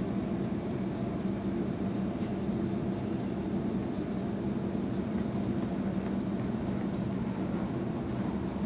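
Steady rumble and low hum inside a Sydney suburban electric train carriage running along the track.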